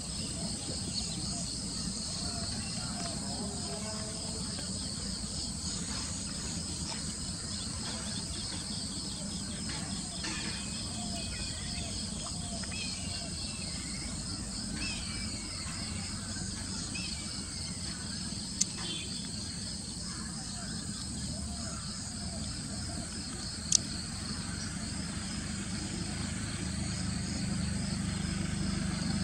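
Insects chirring steadily in a fast high pulse, with a few faint bird calls about a third of the way in and two sharp clicks later on.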